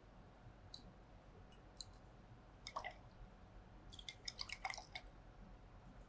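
Faint light clicks and taps of small laboratory glassware being handled while universal indicator is added to a test tube, with a cluster near the middle and another about four to five seconds in.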